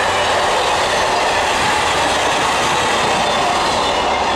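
Train of passenger coaches rolling past close by: a steady, loud noise of steel wheels running on the rails.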